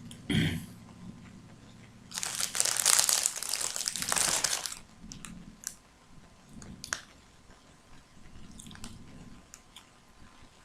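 A rustling, crinkling noise lasting about two and a half seconds, followed by a few scattered soft clicks.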